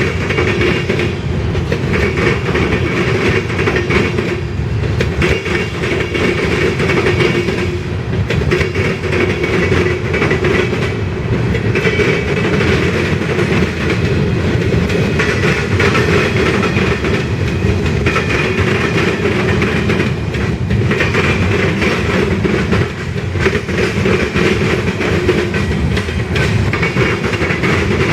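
Freight train cars rolling past: steel wheels clicking over the rail joints in a steady, loud rumble.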